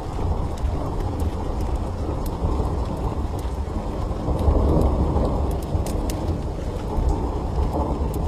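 Steady heavy rain with a deep rolling thunder rumble that swells about halfway through, and scattered sharp faint crackles.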